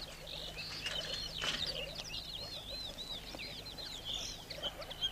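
Small birds chirping, a quick run of short, high, up-and-down notes repeated over and over, with a brief knock or two.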